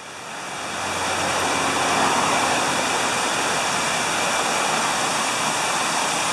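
Steady rush of water from an artificial waterfall on a mini golf course. It grows louder over the first second or two, then holds steady.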